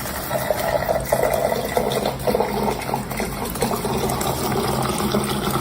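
Running water, a steady rushing noise, with a low steady hum underneath.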